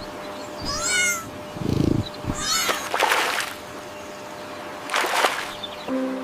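Cat meowing twice, high-pitched calls that bend up and down, with a few short noisy sounds in between.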